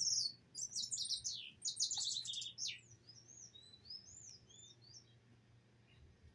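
Small birds chirping: a busy run of rapid high chirps over the first three seconds, then scattered short whistled notes that rise and fall.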